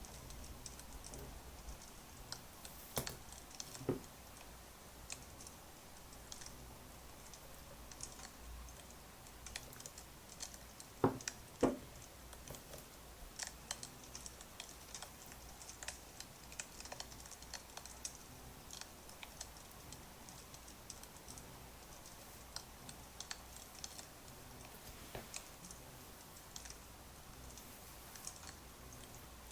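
Crackling wood fire: sparse, irregular small crackles and clicks over a faint steady low hum, with two louder knocks about eleven seconds in.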